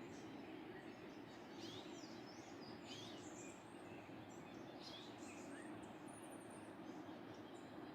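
Steady rush of a waterfall, with small birds chirping over it in short, high calls at irregular intervals.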